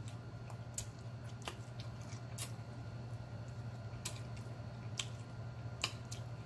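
Close-up eating sounds: chewing and wet mouth and lip clicks while meat is picked off a hot chicken wing, in scattered sharp clicks about once a second over a low steady hum.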